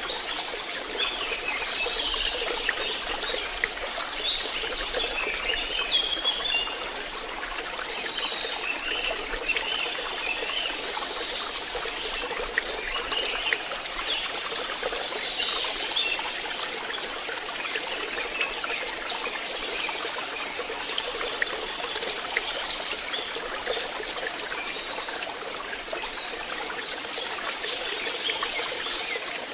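Water trickling and splashing steadily into a fish pond.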